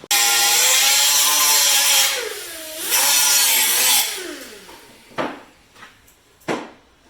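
A power tool running on metal in two long bursts, its pitch sagging and recovering as it bites, then two short blips of the trigger.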